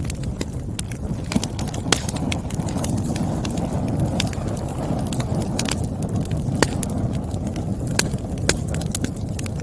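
Wood fire burning steadily, a low rumble of flames with irregular crackles and a few sharp pops of burning firewood.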